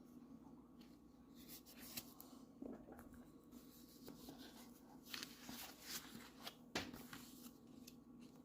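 Faint handling noises of a coin set being opened: light rustling with a few soft clicks.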